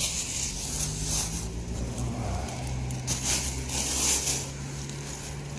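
Rustling of a plastic bag being handled in several short bursts as mandarins are bagged, over a steady low hum.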